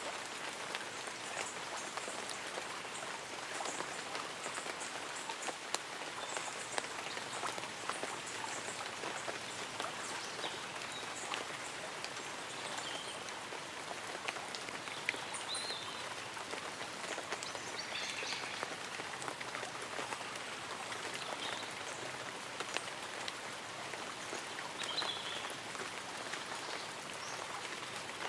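Light rain falling on tree leaves and an umbrella: a steady hiss with many separate drops ticking through it, and a few faint, short high chirps now and then.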